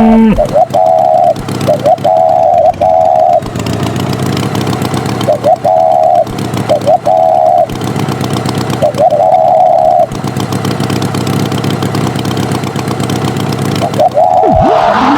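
A vehicle engine runs steadily while a horn sounds over it in short, repeated honks of one pitch, coming in irregular groups.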